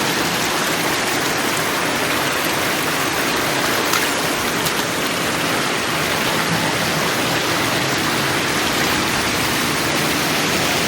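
Steady rush of a rocky river stream's flowing water.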